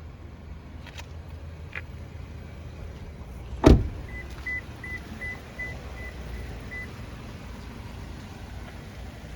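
A car door shuts with a loud thud, followed at once by a run of about eight short, high electronic beeps, roughly three a second, fading away. A low steady rumble runs underneath, with a couple of faint clicks before the thud.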